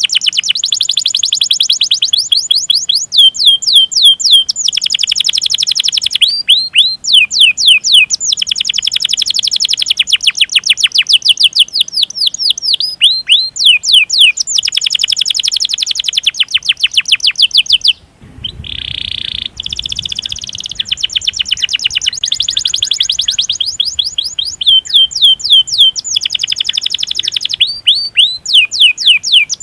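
Domestic canary singing long rolling trills of very fast repeated notes, broken up by runs of sharp down-sweeping 'cuit cuit' chirps. About two-thirds of the way through the song breaks off briefly and a short low rumble is heard.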